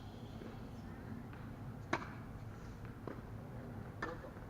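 Tennis ball struck by a racket: one sharp crack about two seconds in, then fainter knocks of ball hits or bounces, over steady low background noise.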